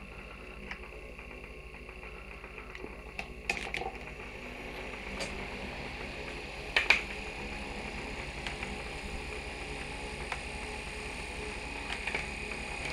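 Small portable USB fan running with a steady whir, broken by a few sharp clicks; the loudest is a double click about seven seconds in.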